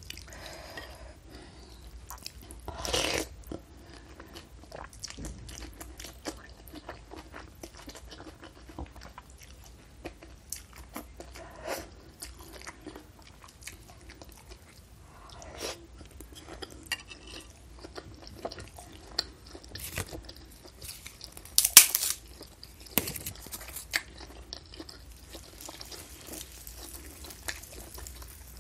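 Close-miked chewing and mouth sounds of a person eating bakso meatball soup with noodles, full of small wet clicks, with a few louder crunchy bites about 3 seconds in and again around 22 seconds.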